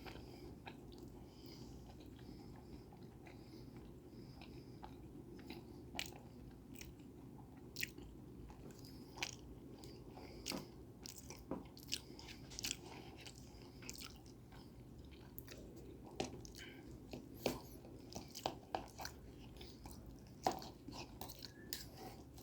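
A person chewing food close to the microphone, with scattered short, soft wet mouth clicks over a faint steady background hum.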